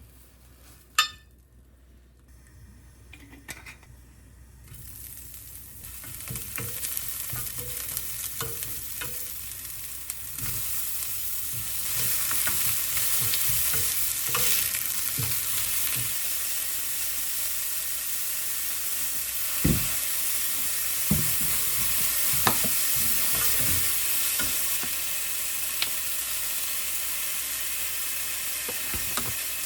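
Food frying in a pan: a sizzle that builds up after a few seconds and then holds steady, with a few knocks of a utensil stirring against the pan. A single sharp click comes about a second in, before the sizzle starts.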